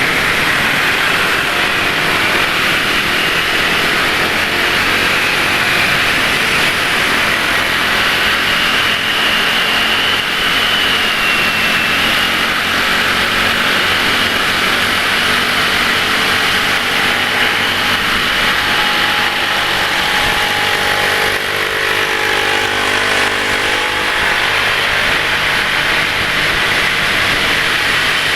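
Road traffic heard while riding a scooter: a steady wash of road and wind noise with the engines of nearby motorcycles and cars. Some engine pitch rises and falls in the second half as vehicles speed up and pass.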